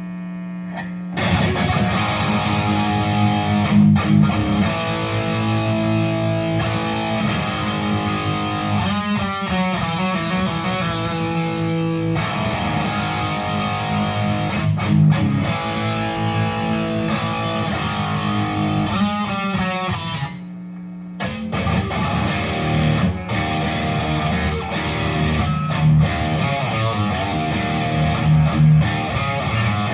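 Electric guitar, an RJ Bluesbreaker Les Paul with P90 pickups, played through a Tech21 SansAmp GT2 pedal into a Laney 65RT amp: chords and riffs start about a second in and run with a short break a little past twenty seconds. In the gaps the amp's steady hum is heard.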